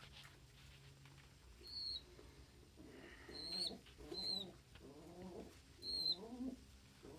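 Domestic pigeons cooing in a run of low, repeated coos from about three seconds in, mixed with four short high peeps that fit squeakers (young pigeons).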